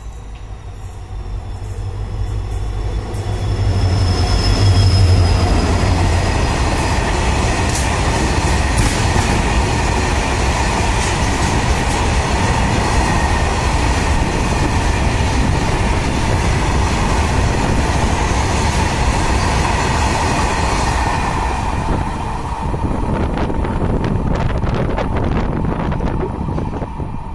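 A WDP-4D diesel locomotive's 16-cylinder two-stroke engine runs loud as it passes with a goods train. A long rake of loaded hopper wagons then rumbles and clatters by on the rails, with a thin steady squeal from the wheels. The rumble eases off about 22 seconds in as the last wagons go past, leaving a few scattered clicks.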